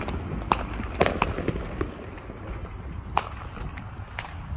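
Fireworks going off some way off: about half a dozen sharp pops and bangs at uneven intervals over a low steady rumble.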